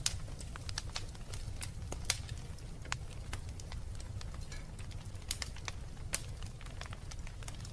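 Wood fire crackling in a fireplace: irregular sharp pops and snaps, several a second, with a few louder ones, over a low steady rumble.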